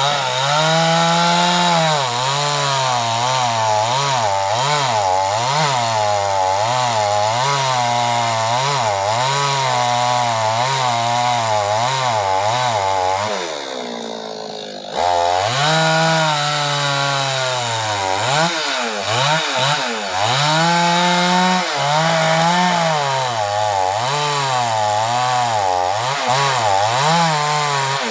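Two-stroke chainsaw running at high revs through wood, its pitch wavering up and down as the chain bites and frees. About halfway through the revs fall away and it goes quieter for a second or so, then it snaps straight back to full throttle. Near the end the revs drop off again.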